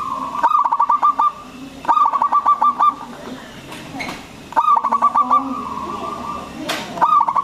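Zebra dove (perkutut) cooing: four phrases about two to three seconds apart, each a held note breaking into a quick string of about six short staccato coos. A sharp click comes just before the last phrase.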